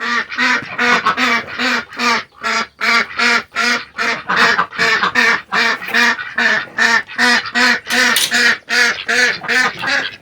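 Domestic ducks quacking loudly and without a break, a fast, even series of about three quacks a second.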